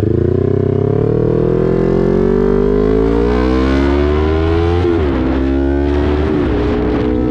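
Motorcycle engine accelerating under load. Its pitch climbs steadily for about five seconds, drops at a gear change, rises briefly, then steps down again at another shift and holds steady near the end.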